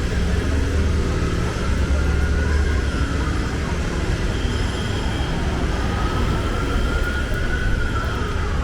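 Low, steady street-traffic rumble with a distant siren wailing over it, its pitch slowly rising and falling twice.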